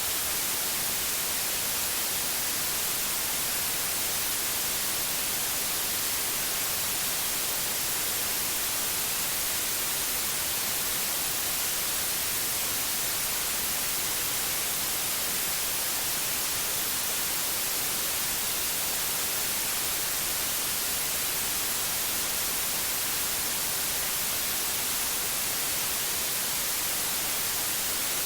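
Electronically generated white noise: an even, unchanging hiss, brightest in the highs.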